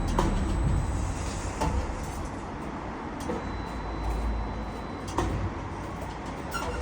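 Heavy engine of the crane or delivery truck running steadily with a low rumble, with a few sharp metallic knocks from bundles of steel reinforcement mesh being handled.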